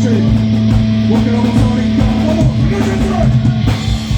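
Heavy metal band playing live: electric guitar and bass holding a low note over regular drum hits.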